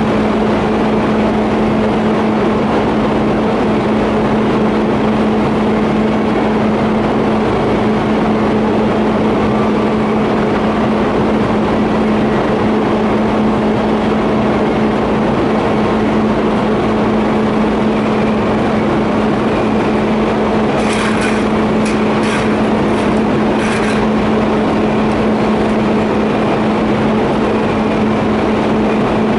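TIG welding on a steel pipe flange and elbow: a steady electrical hum from the arc and welding machine over a constant hiss. A few short clicks come about two-thirds of the way through.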